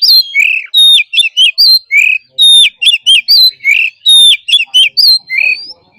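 Oriental magpie-robin singing loudly. The same phrase comes back about every second and a half: a clear high whistle dropping in pitch, then a quick run of sharp notes and a lower, fuller note.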